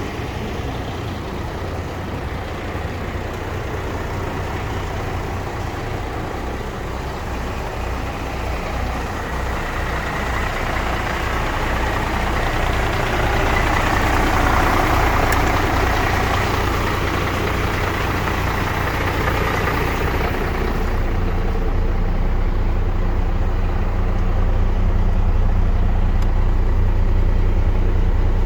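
A vehicle engine running steadily with a low hum. A broader rush of noise builds up around the middle and dies away about two-thirds of the way through.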